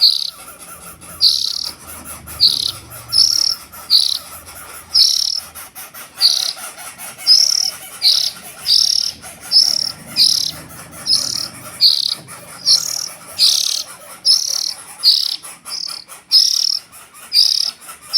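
Juvenile oriental magpie-robin calling: short high notes repeated evenly, about one every 0.7 s, over a faint steady insect drone.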